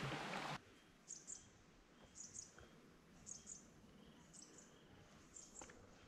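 A small bird repeating a high, thin two-note chirp about once a second over faint forest quiet. A steady hiss stops abruptly just after the start.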